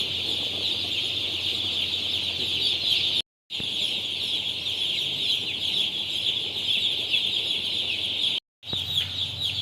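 A dense, continuous chorus of day-old broiler chicks peeping en masse: countless high, short, downward-sliding peeps overlapping. The sound cuts out to silence twice, briefly, about three seconds in and about a second before the end.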